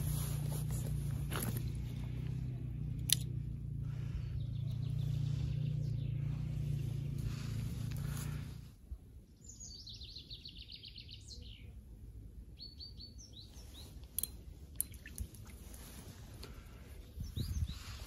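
A steady low rumble that cuts off suddenly about halfway through, then a songbird singing outdoors: a fast descending trill of high notes, followed a little later by a shorter phrase.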